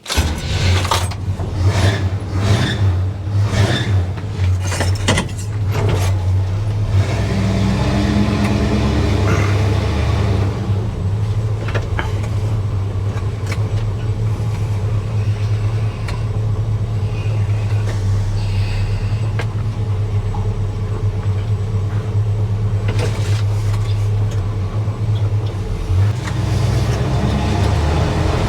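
1970 GMC K10 pickup's engine starting up and running, with a string of sharp knocks over the first several seconds. It then settles into a steady low running note, rising briefly a few seconds later and again near the end.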